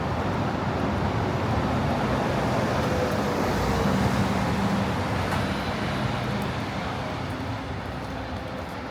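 Road traffic passing on a city street: a motor vehicle goes by close, the noise swelling to its loudest about four seconds in and then fading away.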